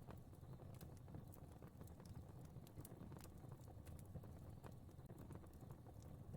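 Fire crackling faintly: irregular small pops and snaps over a low, steady rumble.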